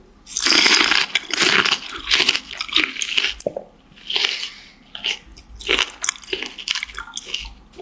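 A person biting into and chewing crisp fresh fruit: a loud crunching bite about half a second in, then a run of irregular crunchy chews.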